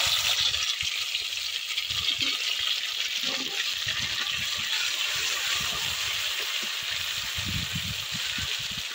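Wet ground spice paste of green chilli, ginger, cumin and radhuni sizzling steadily in hot mustard oil in a metal kadai, with a metal spatula knocking and scraping the pan now and then as it is stirred.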